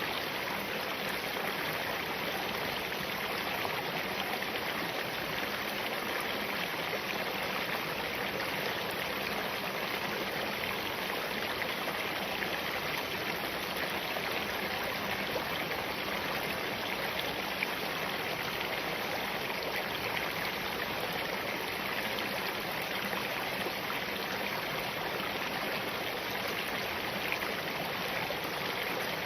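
Small mountain stream running steadily over and between rocks, an even, continuous babble of water.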